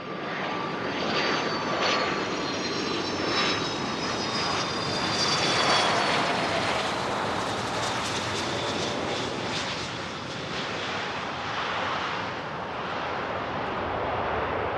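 Jet aircraft passing close by, with a steady engine roar and a high turbine whine that slowly falls in pitch over the first six seconds.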